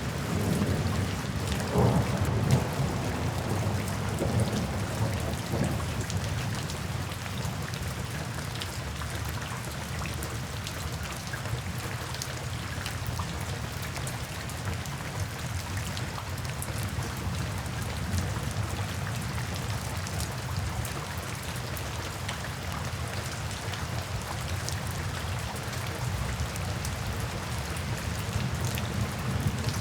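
Steady rain falling, with scattered drops ticking close by. A soft roll of thunder rumbles in the first few seconds, loudest about two seconds in, then fades under the rain.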